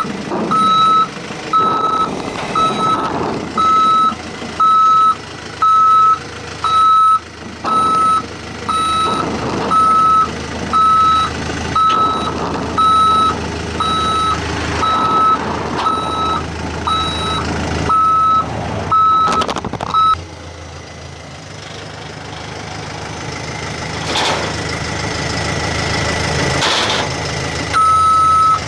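Tucker Sno-Cat's backup alarm beeping about once a second over its running engine as the machine is maneuvered onto its trailer. The beeping stops about two-thirds of the way through, leaving the engine running, and one more beep sounds near the end.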